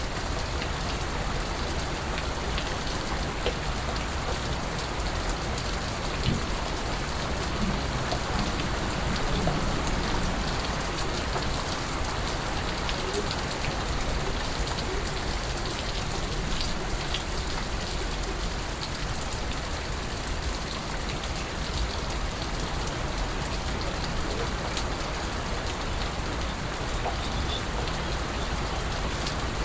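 Steady rain falling, a continuous even hiss with scattered individual drips.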